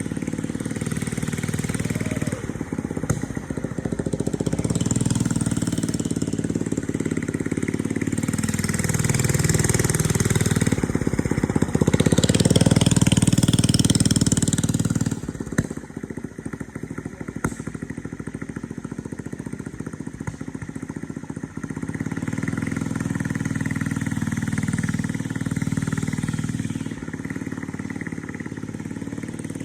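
Thunderbird mini bike's small engine running as it is ridden, slowing and picking up again, loudest about halfway through, then dropping suddenly to a lower, steadier run for the rest.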